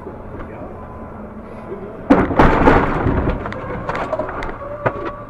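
A car crash: steady road and engine noise, then a sudden loud collision about two seconds in, followed by scattered clattering and rattling as it dies down.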